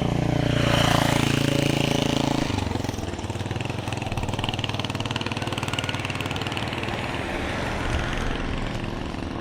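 A motor vehicle's engine running close by, loudest over the first two and a half seconds, then fading into steady street traffic noise.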